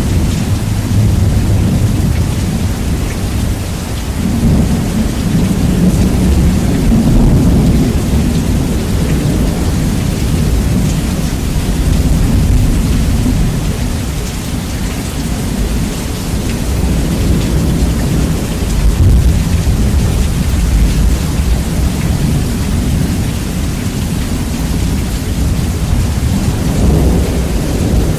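Rain and rolling thunder, bass-boosted and distorted so that a heavy low rumble dominates over the hiss of the rain. The rumble swells and eases slowly, with no single sharp crack.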